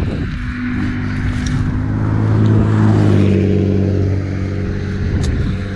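An engine running at a steady low pitch, starting at the very beginning and growing louder toward the middle before easing off slightly.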